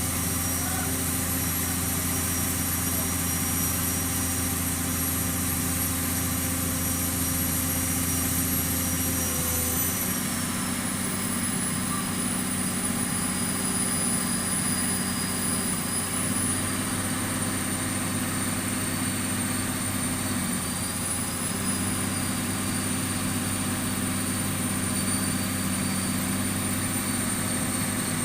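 Piling rig running steadily: engine hum with a high whine that steps down in pitch about a third of the way in and shifts a couple more times later, with no hammer blows.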